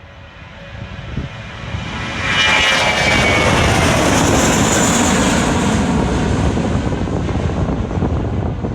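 Jet airliner taking off close by: engine noise swells sharply about two seconds in and stays loud, with a high whine at first that gives way to a broad rushing noise.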